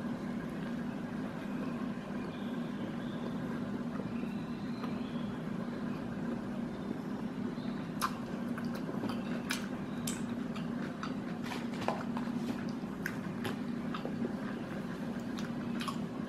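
A person biting into and chewing a chicken burger, heard as soft scattered clicks and mouth noises, most of them in the second half, over a steady low hum.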